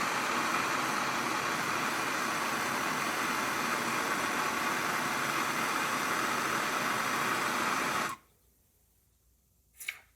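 Hand-held gas torch burning with a steady hiss, heating a new copper drain washer to anneal it, then shut off abruptly about eight seconds in. A brief short sound follows near the end.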